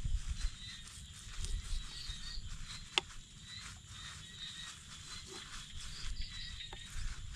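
Outdoor rural ambience with a steady high drone of insects, broken by low rumbles and a single sharp click about three seconds in.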